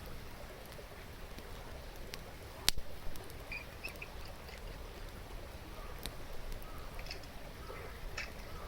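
Wood campfire crackling, with one sharp pop about three seconds in, over the steady rush of a stream. A few short bird chirps come through near the middle and again near the end.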